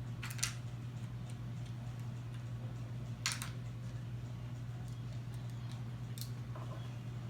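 A few sharp clicks over a steady low hum: one about half a second in, a louder one about three seconds in, and two lighter ones near six seconds.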